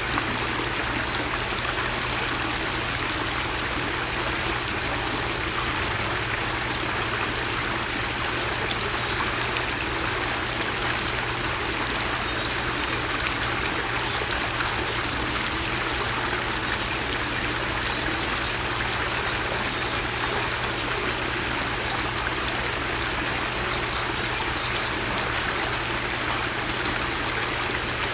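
Steady, even rushing noise like running water, with a low steady hum beneath it, unchanged throughout.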